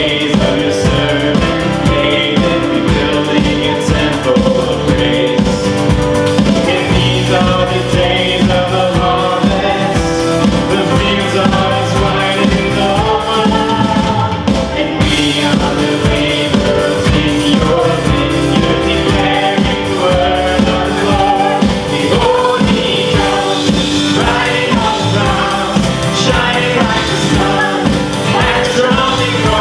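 Live worship band playing a song with singing over a steady beat.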